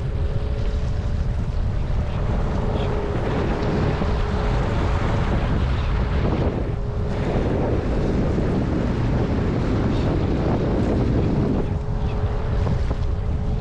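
Mercury 8 hp outboard running at low speed with a steady hum, which weakens in the middle and comes back near the end, under heavy wind noise on the microphone.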